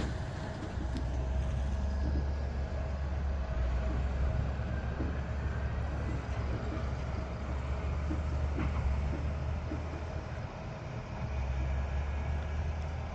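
Diesel engines of large harvest machinery running steadily: a deep rumble with a faint steady whine above it. The rumble eases briefly about ten seconds in.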